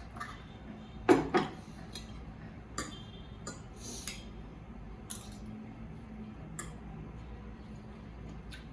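Dishes and cutlery being handled and set down: a loud double knock about a second in, then scattered clinks and taps, some with a short ring, over a low steady hum.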